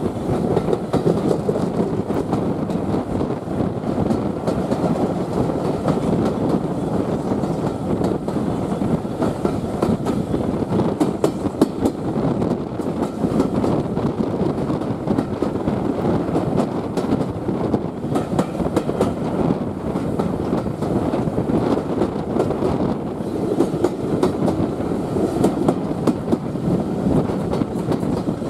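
Steam-hauled train running along the track: a steady rumble with the wheels clattering over the rail joints.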